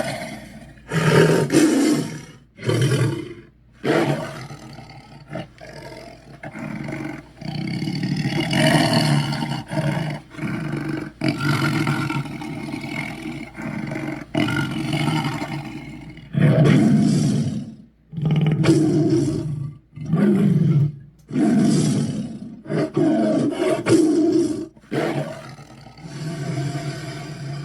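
A string of deep monster roars and growls from the demon Chernabog, about a dozen separate calls, some short and some drawn out, with brief breaks between them.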